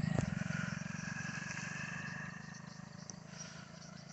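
Vehicle engine running with a low, even firing beat, fading gradually as it moves away.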